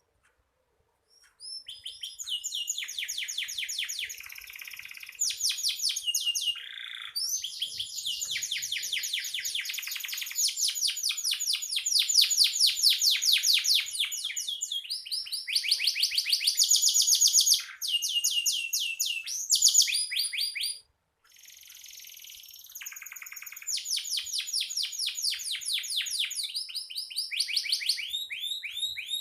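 Domestic canary singing long, rapid trills: runs of fast repeated notes, shifting from one roll to the next with barely a pause.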